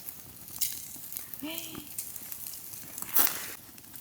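Meat grilling over a fire, with fat dripping onto the coals and crackling and sizzling; a louder hiss comes a little after three seconds in.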